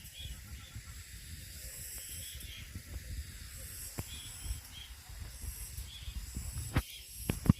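Grass cicadas singing: a steady high-pitched buzz, over a low uneven rumble, with a few sharp clicks near the end.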